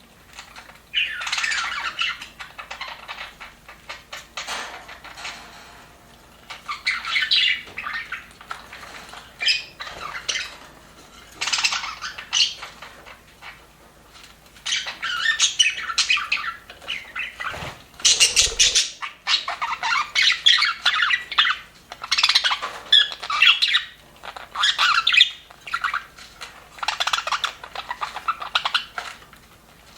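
Budgerigars chattering and warbling in repeated bursts of a second or two, with short quieter pauses between them. A brief low thump comes about halfway through.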